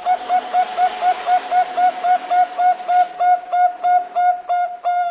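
Zebra dove (Bangkok-type perkutut) calling a fast run of short, hooked notes, about four a second, used as a lure call to set other doves calling. There is a steady hiss behind the calls.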